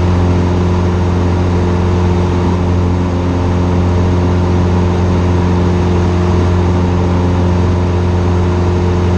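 Cessna 150's four-cylinder Continental O-200 engine and propeller running steadily at constant power: a loud, low, even hum that holds the same pitch and level throughout.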